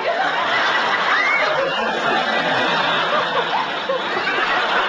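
Several people laughing and snickering together over a busy, steady background of voices.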